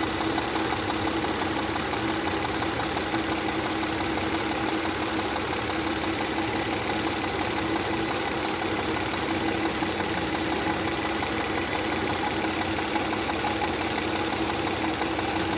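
Audi 3.0 TFSI supercharged V6 (EA837 CREC) idling steadily with its intake hose removed, just after a dose of carbon cleaner has been fed into the intake.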